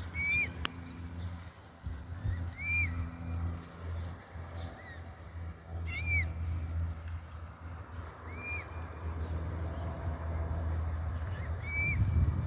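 Baby water bird peeping: a short, rising-and-falling note repeated about every two to three seconds, over a steady low hum.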